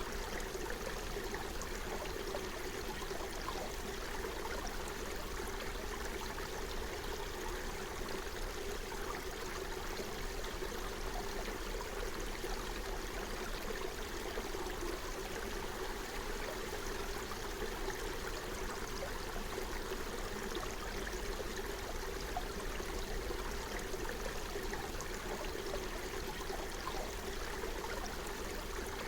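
Forest stream running steadily over its bed, a constant flowing and trickling.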